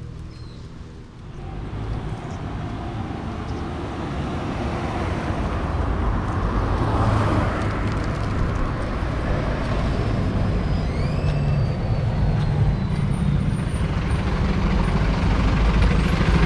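Road vehicle noise, a steady rumble that grows gradually louder.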